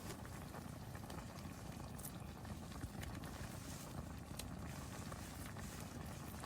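Pot of pork and kimchi jjim simmering and bubbling on a camping gas stove, with scattered light pops over a low steady rumble.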